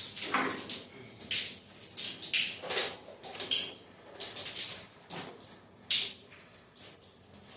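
Irregular metallic clinks and scrapes, a string of short knocks about one or two a second, as of metal tools or parts being handled.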